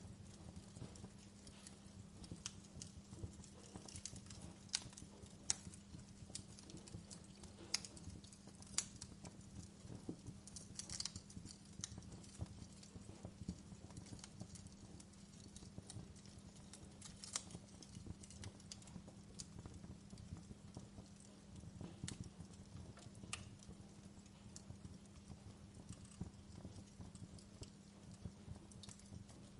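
Wood fire crackling: irregular sharp pops and snaps, a few louder than the rest, over a faint steady low hum.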